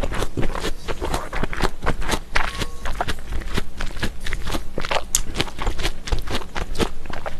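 Close-miked chewing of a mouthful of mulhoe, raw fish and vegetables in cold spicy broth: an irregular, rapid run of small wet clicks and squelches, several a second.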